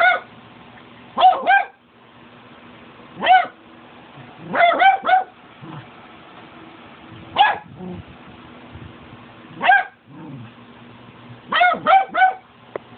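Cavalier King Charles Spaniel barking: short, high barks, sometimes one at a time and sometimes in quick runs of two to four, every second or two.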